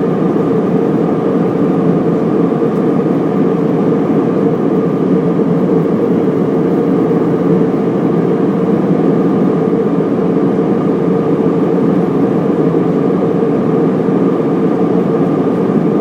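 Steady passenger-plane cabin noise in flight: an even rush of engine and airflow heard from inside the cabin, with a constant hum running through it.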